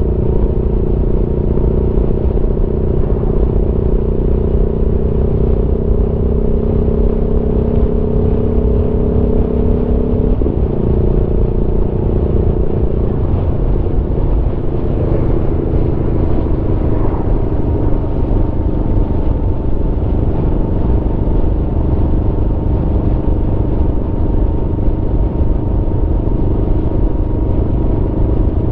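Aprilia Tuono V4's V4 engine running at a steady cruise under a low rumble of wind and road noise. Its note breaks briefly about ten seconds in, then settles slightly lower from about fourteen seconds on.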